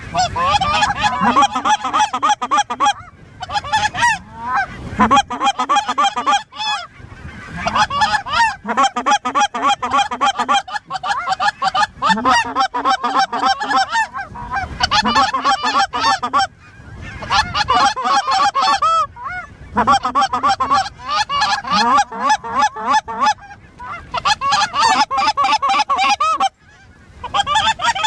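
Many geese honking and clucking at once, the calls overlapping almost continuously with a few short lulls.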